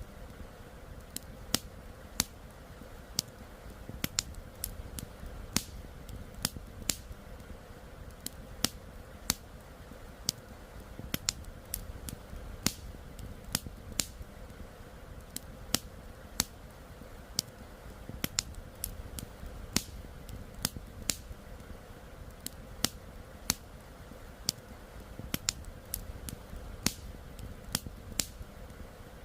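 Wood campfire crackling: sharp, irregular pops and snaps, several a second, over a steady low rush of flowing river water.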